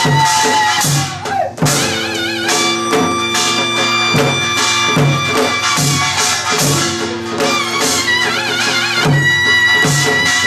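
Korean traditional dance-accompaniment music: a wavering, vibrato-laden melody on traditional wind or bowed instruments over a steady beat of drum strokes.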